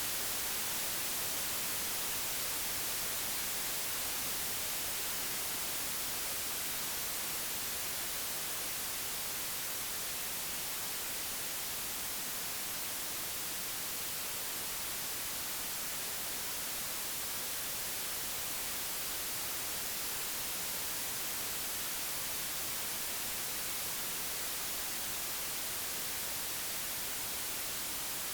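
Computer-generated white noise: a steady, even hiss across all frequencies, brightest in the treble.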